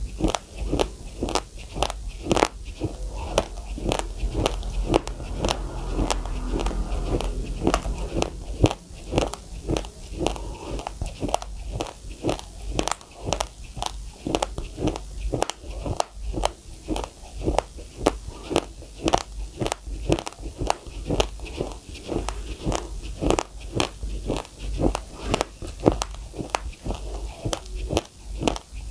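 Raw, uncooked rice grains crunched between the teeth in steady chewing, close up: a rapid run of crisp crunches, about two to three a second.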